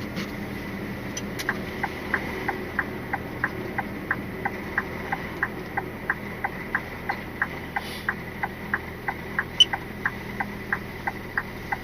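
Lorry's turn-indicator clicking in the cab, an even tick-tock about three clicks a second that starts about a second and a half in, over the steady hum of the idling engine.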